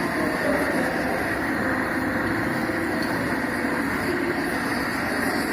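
Glass-melting furnace of a glass-waste processing machine running, giving a steady, even rushing noise with no breaks.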